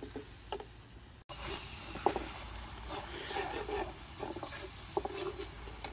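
A metal spatula scrapes and stirs chopped green garlic and green onion in a wok over a wood fire, with the oil sizzling underneath. It makes a run of short, irregular scraping strokes over a steady frying hiss.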